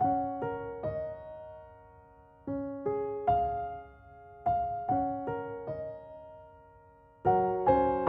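Background piano music: gentle single notes in short phrases, each note fading away, growing fuller and louder near the end.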